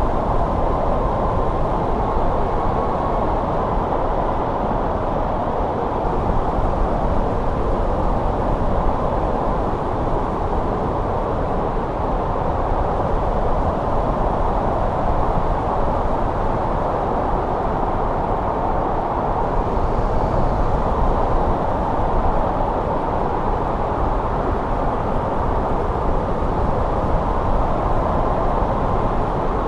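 Steady winter wind blowing: an even rushing noise with a low rumble beneath, unchanging throughout.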